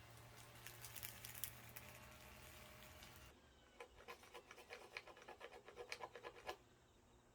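Faint hiss and crackle of a small wood-stove fire, then a sudden change to a run of quick light clicks and scratches for about three seconds.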